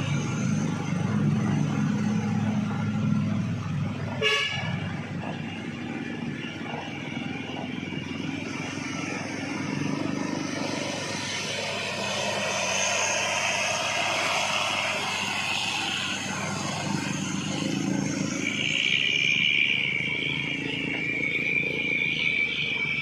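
Heavy truck engines running as loaded trucks pass each other on a steep climb. There is a sharp click about four seconds in, and a horn sounds steadily for the last few seconds.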